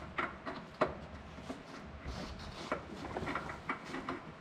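Scattered light clicks and knocks as a new FL500S oil filter is worked up into place and threaded on by hand beneath the engine.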